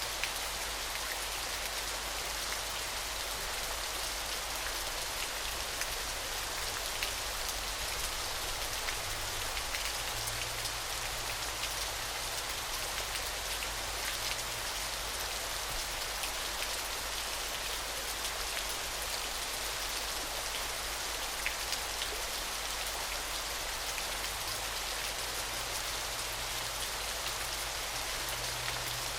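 Steady hiss of falling water with a fine, dense spatter of splashing drops.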